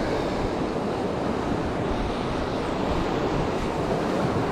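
Steady rush of white-water river rapids, with wind noise on the microphone.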